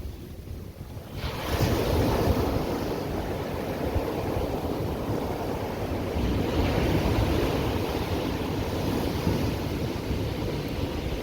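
Ocean surf on a beach: after a short lull, a wave breaks and washes in about a second and a half in, and the wash goes on steadily. Wind rumbles on the microphone underneath.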